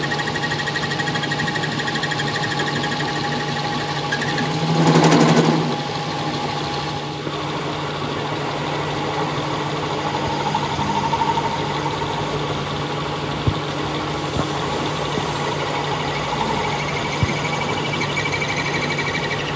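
Tractor diesel engine idling steadily, with a brief louder surge about five seconds in and a couple of sharp clicks later.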